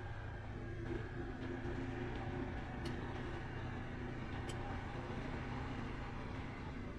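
Honda CT125's single-cylinder four-stroke engine running steadily under way, with the ride's rushing noise over it. Two sharp ticks come about three and four and a half seconds in.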